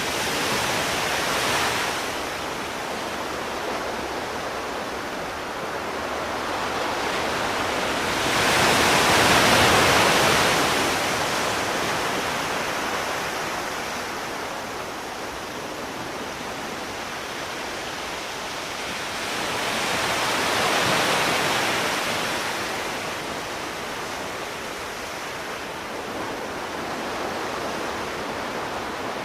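Sea waves washing ashore in a steady hiss, with a slow surge of breaking surf about every ten seconds, the loudest about a third of the way in.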